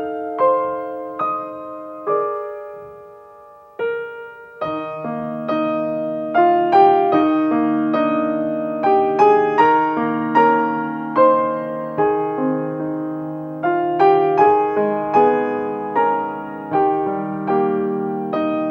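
Piano music: single notes and chords struck and left to ring. It thins to a few decaying notes between about two and four seconds in, then goes on as a fuller passage over low sustained notes.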